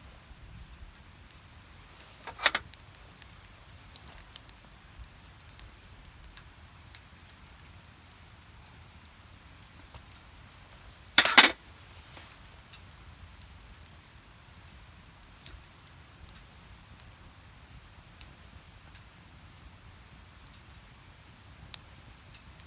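Split firewood burning and crackling in a small Snow Peak Takibi-dai S fire pit, with scattered faint pops and two louder crackling bursts, one about two seconds in and a stronger one about halfway through.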